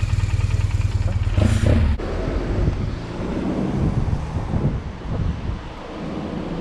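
BMW R 1200 GS boxer twin with an SC Project exhaust idling, then switched off about two seconds in, leaving wind noise on the microphone and low background noise.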